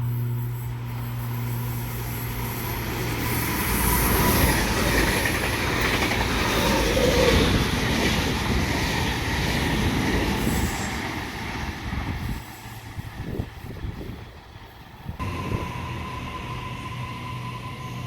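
A train running past along the platform: wheel-on-rail rumble and hiss swell to their loudest over several seconds, then fade away.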